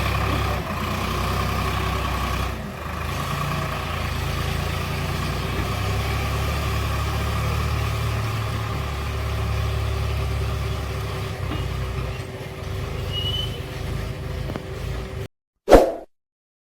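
Eicher DI 551 tractor's diesel engine running steadily. The sound cuts off abruptly near the end, followed by one brief loud sound.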